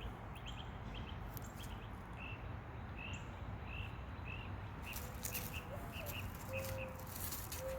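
A small bird chirping, the same short high note repeated over and over at an even pace. A few faint crackles come in the second half.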